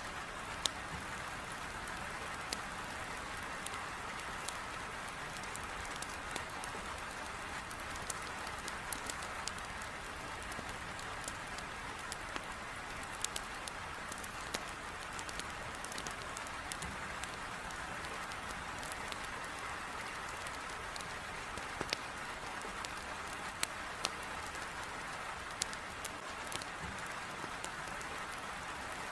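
Heavy rain beating steadily against a window, mixed with the scattered sharp pops and crackles of a wood fire burning in a fireplace.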